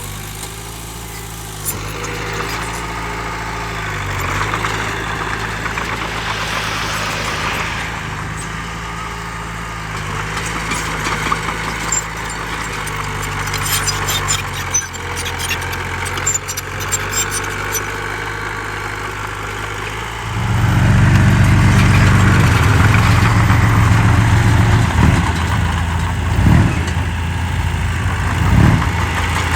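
Heavy diesel engine of earthmoving machinery running steadily, then louder about two-thirds of the way in as it comes under load, with two short revs near the end. Light rattling clicks in the middle.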